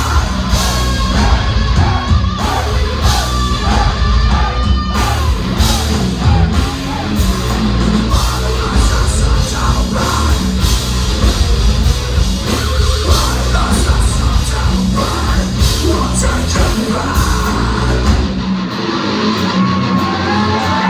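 Heavy metal band playing live, with heavy drums, bass and distorted guitars, and sung and yelled vocals. The bass drops out for a couple of seconds near the end.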